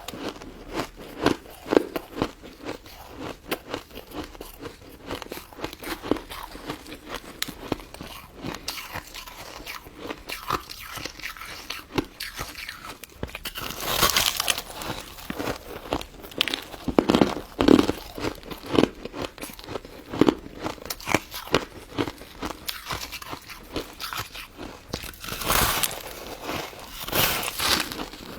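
Close-up crunching and chewing of crystal snow ice: irregular crisp crackling bites, with denser crunching about halfway through and again near the end.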